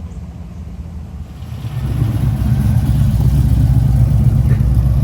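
Car engine running with a low, heavy note, getting louder about a second and a half in and then holding steady.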